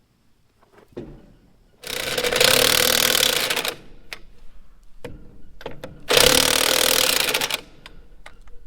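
Impact wrench run in two bursts of about two seconds each, with a few clicks between them, as lug nuts are driven on a trailer wheel.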